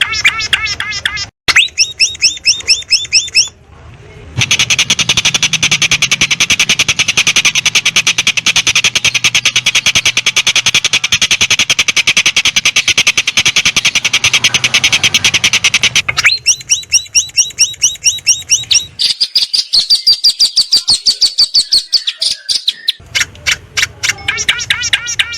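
Long-tailed shrike (cendet) song with mimicked phrases: loud bursts of fast repeated high chirps, and a long, very rapid trill in the middle lasting about twelve seconds. A thinner, higher trill follows near the end before the chirp bursts return.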